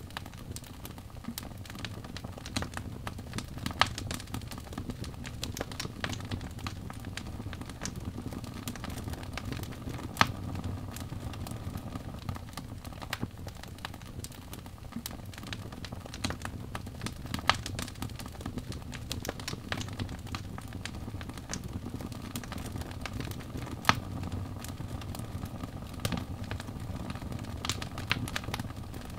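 Wood fire in a fireplace crackling steadily over a low rumble of flames, with dense small crackles and about four louder pops spread through.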